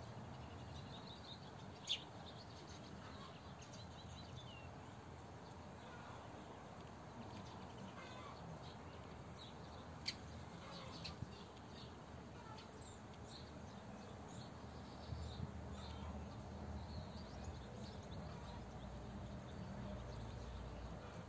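Small birds chirping with short calls at irregular intervals, faint against a low steady outdoor background rumble that grows stronger in the second half.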